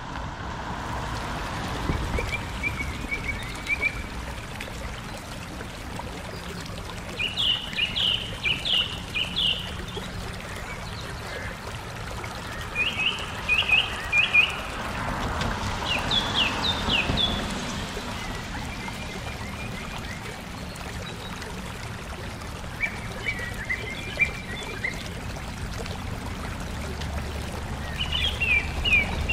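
Small birds singing in short, quick runs of high chirps, about seven runs spaced a few seconds apart, over a steady background hiss.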